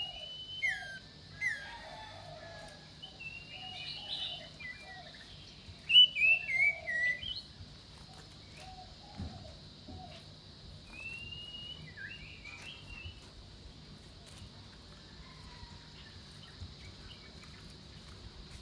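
An iora singing: short whistled phrases that glide up and down, in bursts, loudest about six seconds in and fading after about thirteen seconds. A run of short lower notes from another bird goes with it through the first half.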